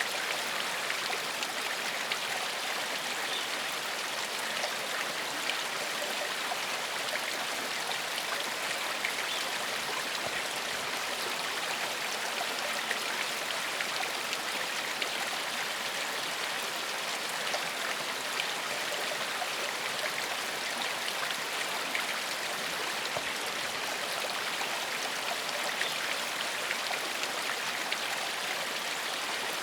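Small forest stream flowing steadily over stones, a constant splashing rush with fine droplet ticks and no change in level.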